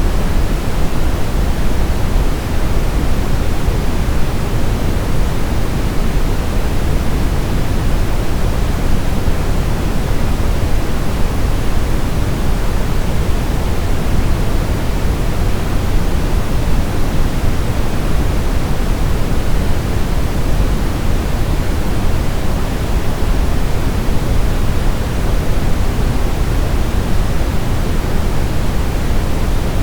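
Steady brown noise: a constant, deep rushing hiss weighted toward the low end, unchanging throughout.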